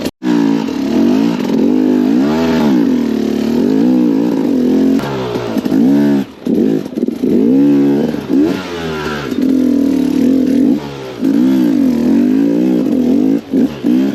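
KTM 250 XCW two-stroke enduro engine revving up and down again and again as the throttle is worked on rough terrain, with short drops in engine sound about six seconds in and near the end.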